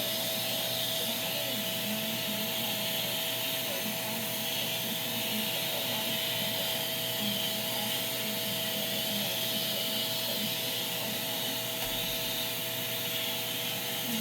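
Shark vacuum cleaner running steadily, a constant motor whine over the rush of air.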